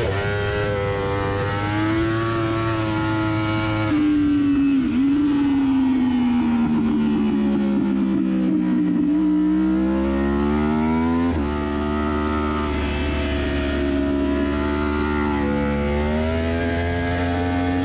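Yamaha R1 inline-four superbike engine heard onboard at race pace. The engine note sinks for several seconds as the bike slows, then climbs under acceleration. About eleven seconds in it drops abruptly at a gear change, then climbs again.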